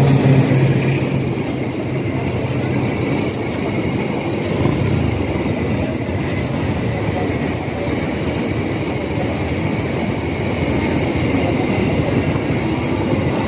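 Fuel tanker train's wagons rolling past on the rails, a steady loud rumble with a faint high-pitched ring over it for the first few seconds.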